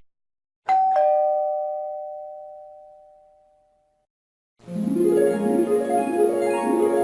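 Two-tone ding-dong doorbell chime, a higher note then a lower one, ringing out and fading over about three seconds. About four and a half seconds in, instrumental music starts, with runs of notes.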